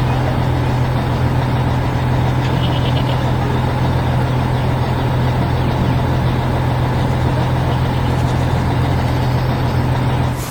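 Heavy truck engine running steadily, an even low drone with a noisy rumble over it that does not rise or fall.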